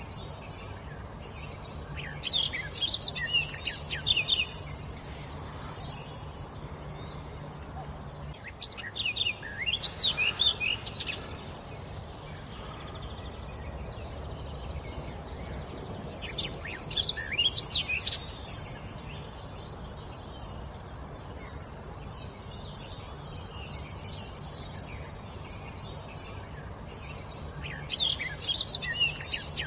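A wild songbird singing four separate phrases of quick, high notes, each about two seconds long and several seconds apart, over a steady low hum.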